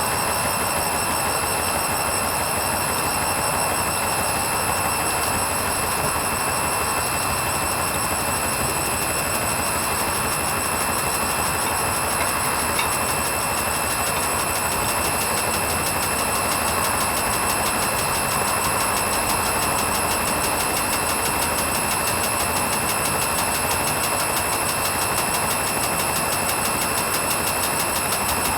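Hoover Vision HVP16 washing machine running steadily on its wool rinse programme: a constant machine noise with a steady high-pitched whine on top, unbroken throughout.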